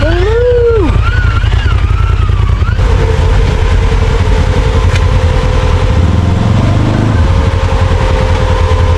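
Side-by-side UTV engine running under way on a rough trail, a loud low rumble throughout. A wavering pitched sound rides over it for the first three seconds, then a steady whine continues.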